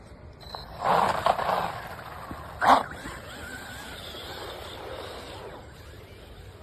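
A dog barking: a quick cluster of barks about a second in, then a single louder bark near three seconds.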